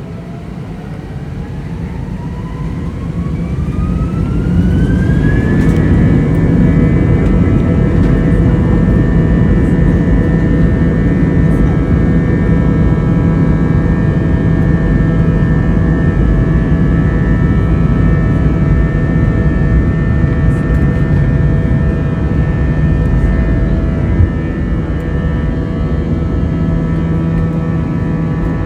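Airbus A319 jet engines spooling up to takeoff thrust, heard from inside the cabin: a whine rises in pitch and loudness over about five seconds, then the engines run loud and steady with a constant whine, easing off slightly near the end.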